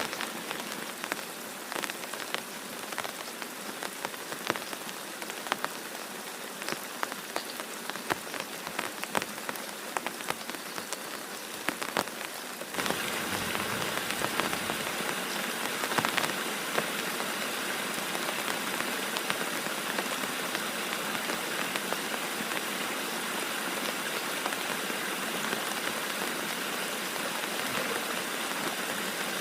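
Heavy rain falling and striking a surface, with many separate drop hits. About halfway through the sound changes abruptly to a denser, steadier rain hiss.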